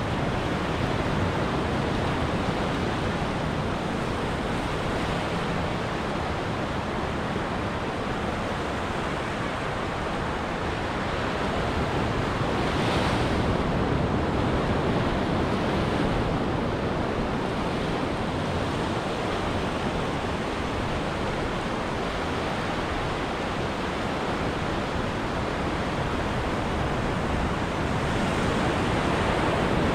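Ocean surf breaking and washing on a beach, a steady rush with gentle swells in loudness about halfway through and near the end.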